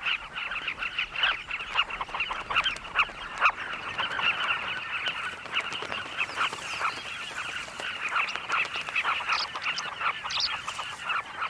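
A colony of carmine bee-eaters calling all at once: a dense, continuous chatter of many short overlapping calls.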